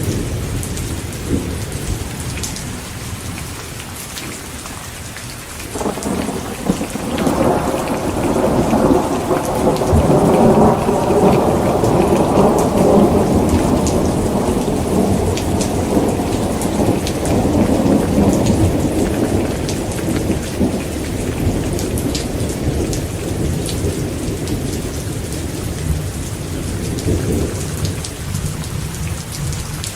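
Heavy rain falling steadily, with scattered drops ticking. A long roll of thunder begins about six seconds in, builds to its loudest a few seconds later, and rumbles away over the next fifteen seconds or so.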